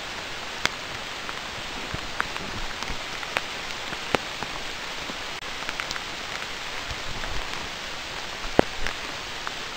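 Steady rain falling, with scattered sharp taps close by.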